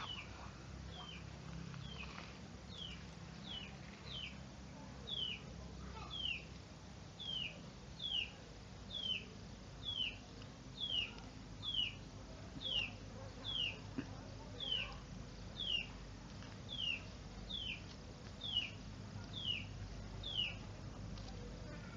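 A bird calling repeatedly: a short, high note that falls in pitch, given over twenty times at about one per second. A low, steady background noise runs underneath.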